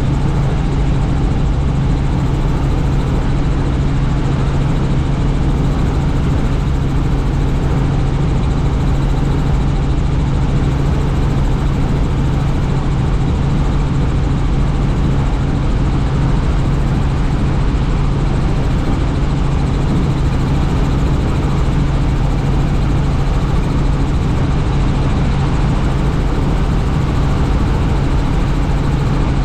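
Helicopter in flight, heard from on board: a loud, steady drone of rotor and engine with a strong low hum that never changes.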